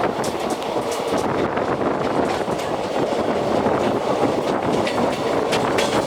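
Passenger express train coaches rolling past at a station, with a steady rumble. The wheels click over the rail joints in quick pairs every second or two.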